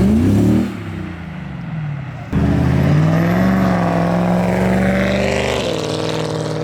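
Performance car engines revving hard as cars accelerate away, the engine note climbing and then falling off. About two seconds in, another loud engine comes in abruptly and holds a steady high rev before easing off near the end.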